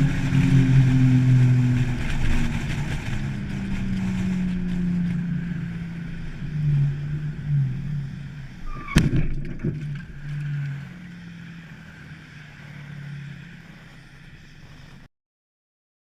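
Vehicle engine running, its pitch slowly falling as it eases off, with one sharp bang about nine seconds in and a few smaller knocks right after, typical of a collision on a dashcam recording.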